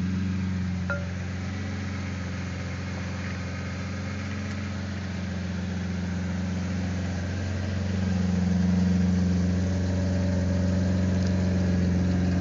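BMW 850's V12 engine idling steadily, getting a little louder about eight seconds in.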